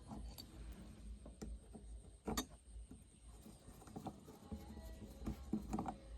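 Scattered small clicks and taps of hand work on machine parts, with one sharper knock about two and a half seconds in, over a low steady hum.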